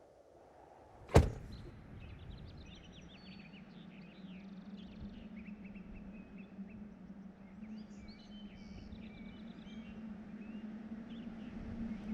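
A door shuts with a single sharp thunk about a second in, followed by birds chirping and a low steady hum that comes in partway through.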